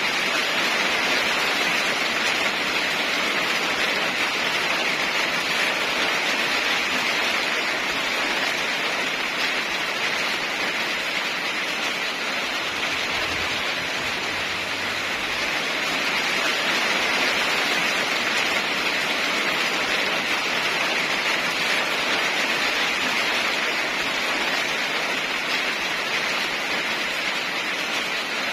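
Steady rain falling, a continuous even hiss with a gentle rise and fall in loudness and no thunder claps.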